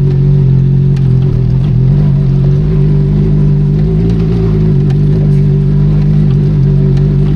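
Benelli Leoncino 500 Trail's parallel-twin engine running at steady revs under way, its note held level with little change in pitch.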